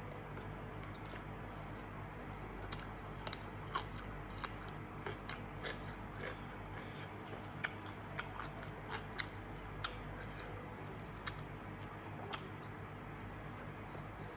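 Close-up eating sounds: a person chewing grilled pork salad with raw vegetables, with irregular crunches and wet mouth clicks over a steady low hum.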